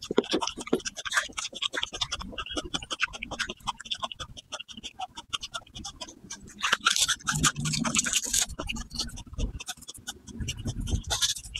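Raw garlic cloves being bitten and chewed close to a clip-on microphone: quick, crisp crunching and clicking, loudest about seven to eight seconds in.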